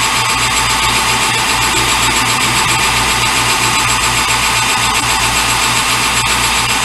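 Metal lathe running steadily while facing the end of a piece of plastic stock, with a steady hum and a low, even pulse of about five beats a second.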